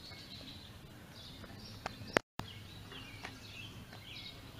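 Outdoor ambience with birds chirping in short calls. About two seconds in there is a sharp click and a split-second dropout to silence.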